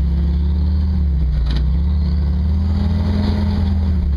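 Jeep CJ5's turbocharged 134 F-head four-cylinder engine running under way, its pitch rising a little through the middle and easing off near the end. A brief click about a second and a half in.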